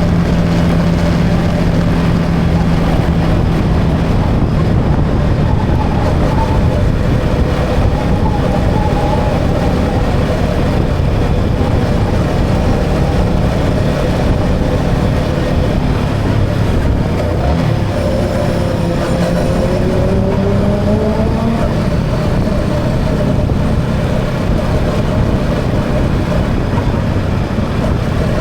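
Yamaha XSR 155's single-cylinder engine running steadily on the move, under a steady rush of road and wind noise. The engine note shifts and rises a few times about two-thirds of the way through.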